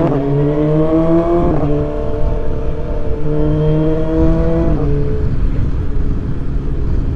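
BMW S1000XR's inline-four engine through a full Akrapovic titanium exhaust, accelerating with rising pitch. It upshifts about one and a half seconds in and again near five seconds, then runs on more evenly.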